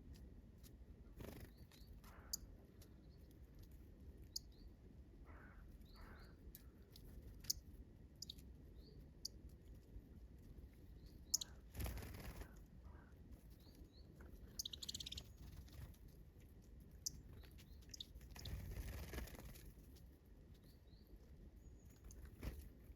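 Small wild forest birds giving scattered short, high chirps and calls, with small clicks and taps throughout and two brief louder rustling noises, one about halfway through and one a few seconds later.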